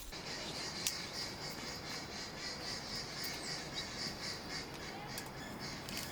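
A steady outdoor insect chorus, a continuous high-pitched chirring, over a low background hiss, with a single sharp click about a second in.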